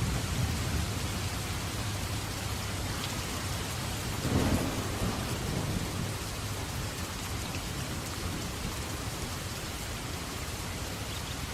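Steady rain hiss with thunder rumbling underneath. A louder clap of thunder breaks about four seconds in, and the rumble then dies away, leaving only the rain.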